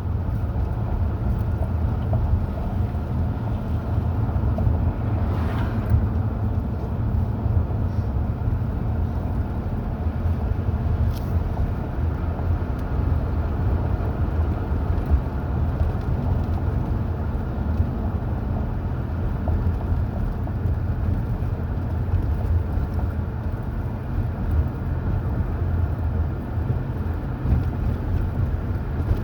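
Steady low rumble of a car driving along, engine and road noise, with a brief louder swish about five and a half seconds in.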